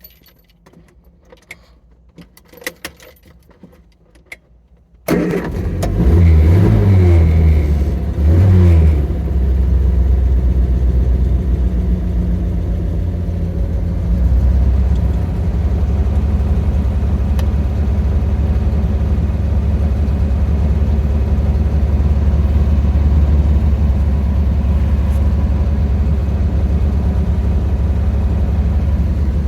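A 1967 Triumph Spitfire Mk II's 1147 cc four-cylinder engine cold-started on the choke: a few faint clicks, then it catches suddenly about five seconds in, revs up twice, and settles into a steady idle.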